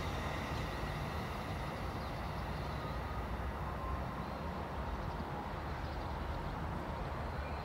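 Receding train: a steady low rumble, with its faint high wheel squeal dying away over the first few seconds.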